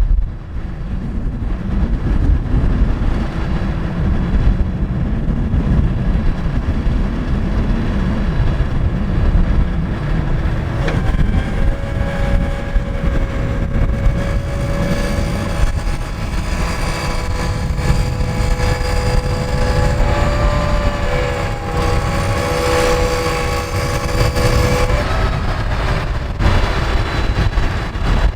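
Scania R580 truck's V8 diesel running with a steady low rumble. A little over a third of the way in, a steady whine joins it, shifts pitch slightly partway through, and stops about three seconds before the end.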